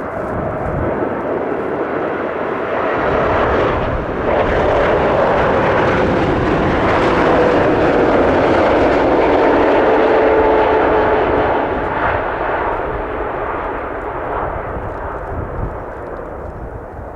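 Boeing 747-8F's four GEnx turbofan engines passing on approach and landing. The jet noise swells to a peak about halfway through and then fades, with a faint tone that slowly falls in pitch as the aircraft goes by.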